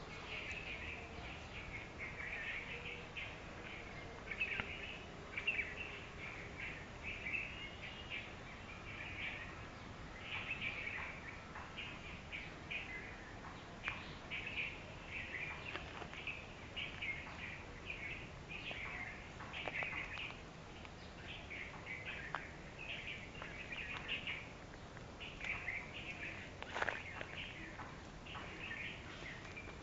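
Wild birds chirping and calling almost without pause, many short high calls overlapping. A few sharp clicks and knocks cut in, the sharpest near the end.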